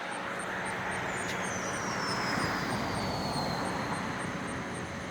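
A vehicle passing by: a broad rushing noise that swells and fades, with a high whine falling in pitch as it goes.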